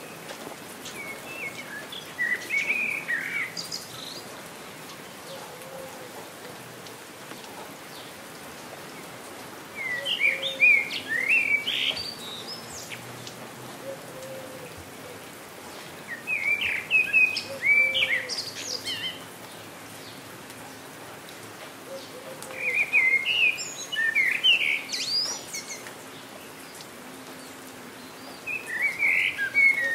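Steady rain hiss with a songbird singing a short, quick warbling phrase of about two to three seconds, repeated five times, roughly every six seconds.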